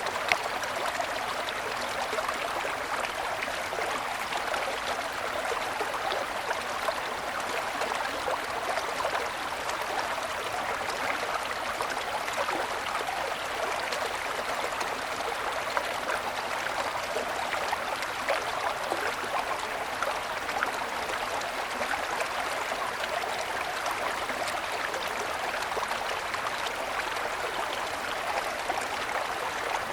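Small mountain stream babbling and splashing over stones, a steady rushing with a fine flicker of splashes.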